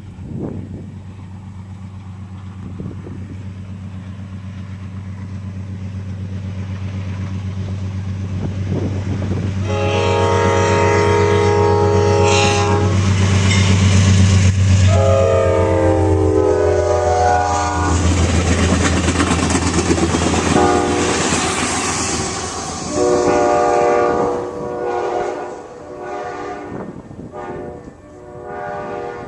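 A diesel locomotive approaches and passes, its engine drone swelling, while it sounds a multi-tone air horn several times. The first blast is long, the horn's pitch drops as the locomotive goes by, and shorter blasts follow as it moves away.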